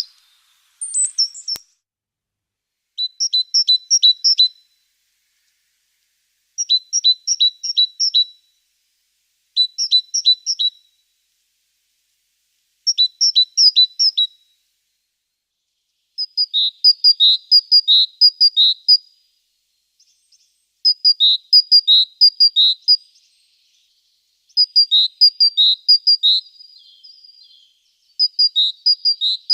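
A small bird chirping in repeated bouts of rapid, high notes, about eight bouts with short silences between. The bouts grow longer from about halfway on.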